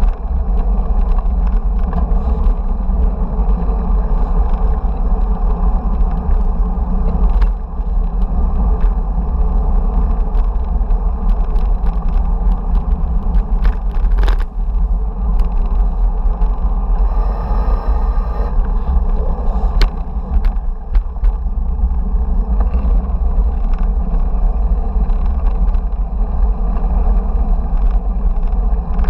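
Wind noise and road rumble on an action camera's microphone during a bicycle ride, loud and steady, with scattered clicks and rattles. A brief high-pitched whine comes about two-thirds of the way through.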